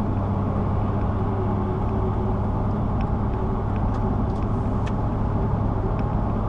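Steady engine and road noise of a car driving at an even speed, heard from inside the car, with a constant low hum.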